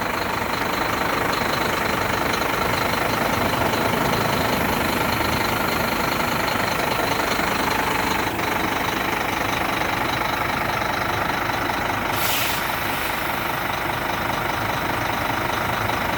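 Scania P310 truck's diesel engine running steadily, with a short hiss about twelve seconds in.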